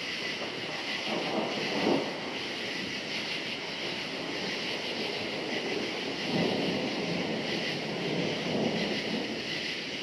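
A steady chorus of crickets trilling, with distant thunder rumbling under it, swelling about two seconds in and again around six seconds.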